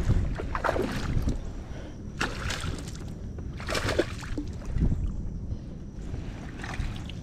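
Water sloshing and splashing against the side of a kayak in several irregular bursts.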